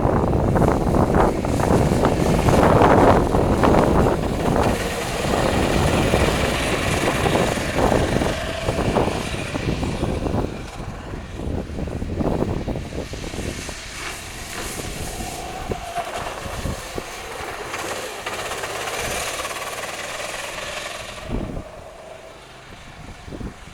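Sodi RT8 rental kart's four-stroke engine running on a wet track, with rough noise throughout. It is loudest in the first ten seconds, then quieter and uneven.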